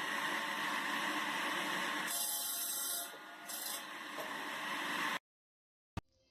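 Steady rushing noise from a homemade firewood-processing machine at work, which cuts off abruptly about five seconds in; a single click follows near the end.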